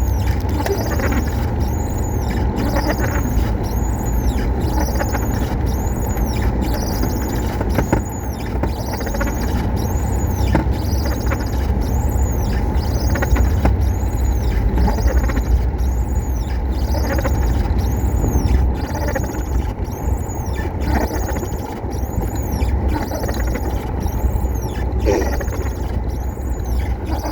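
Loud, steady low rumble of storm wind buffeting, with a high squeak that rises and falls about once a second.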